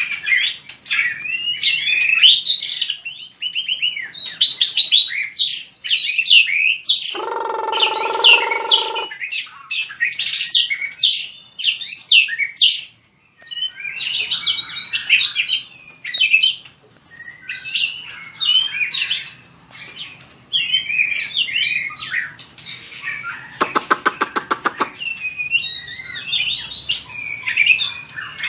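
White-rumped shama singing a fast, varied run of whistled phrases with short pauses. It adds a brief steady buzzy note about a quarter of the way in and a quick rattle of clicks late on.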